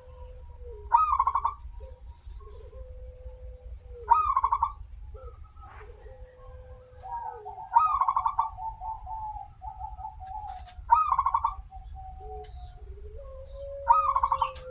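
Zebra dove (perkutut) cooing its song, five loud trilled coos about every three seconds, with softer, lower drawn-out notes between them over a steady low hum.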